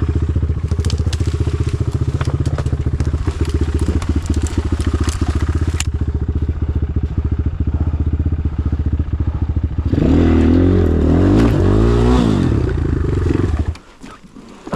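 Enduro motorcycle engine running at a steady low beat with small clicks and scrapes. About two-thirds of the way in it is revved hard, its pitch wavering up and down, and then it cuts off suddenly.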